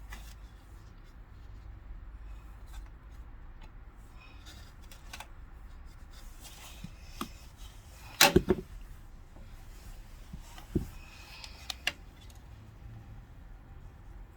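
Hands working on an air conditioner's plastic parts during a repair: a loud cluster of knocks about eight seconds in and a few single clicks a few seconds later, over a steady low hum.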